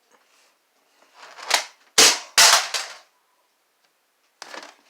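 Three sharp shot-like bangs from toy guns in quick succession, about half a second apart, with a fainter pop near the end.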